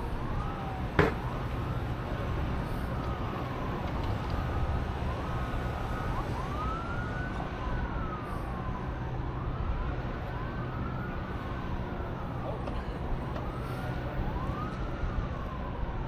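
Emergency vehicle siren wailing, rising and falling about every two seconds over steady traffic and wind rumble, with one sharp click about a second in.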